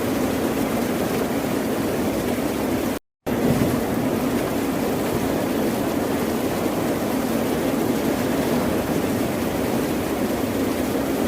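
Ocean surf as a low, steady wash of noise without distinct wave breaks, cut by a brief dropout to silence about three seconds in.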